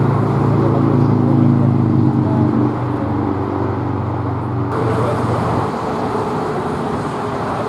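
A steady low engine drone with a humming pitch that fades out about five seconds in, over constant outdoor traffic-like noise.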